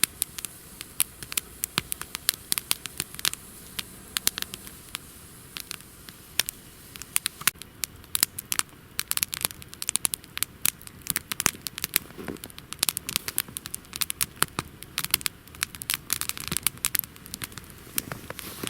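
Campfire of wet, steaming wood crackling and popping, with many sharp, irregular snaps. The popping comes from the damp wood.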